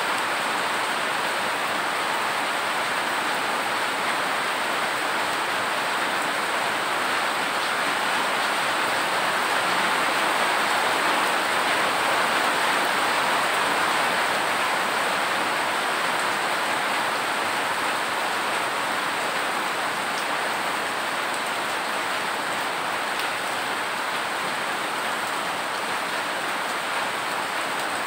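Rain falling steadily, an even hiss of drops on hard surfaces that swells a little midway through.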